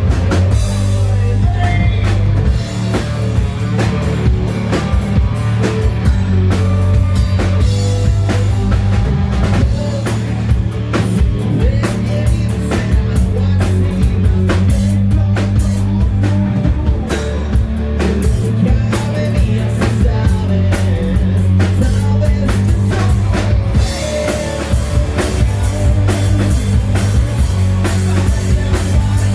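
Hard rock band playing live: a drum kit keeping a steady beat under bass and electric guitar, loud throughout.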